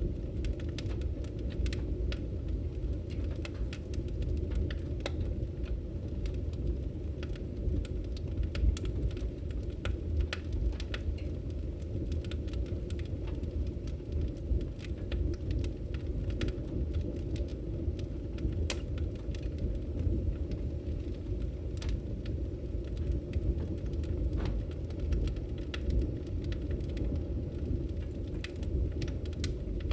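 Wood fire burning in a fireplace: a steady low roar of flames with frequent, irregular sharp crackles and pops.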